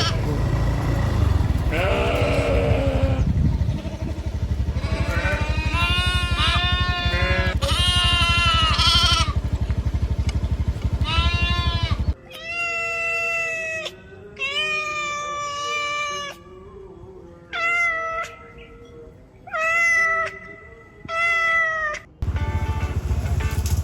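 Farm animals bleating: a series of drawn-out, wavering calls. In the first half they sound over a steady low rumble; after a sudden change about halfway in, the calls come clear, one after another with short gaps.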